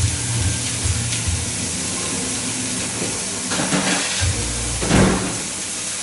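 Fillet steaks sizzling in a frying pan: a steady hiss, swelling louder twice, about three and a half and five seconds in.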